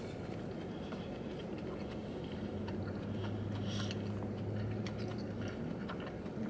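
A person chewing a mouthful of crispy fried chicken sandwich, with small wet mouth clicks. A low steady hum is stronger through the middle.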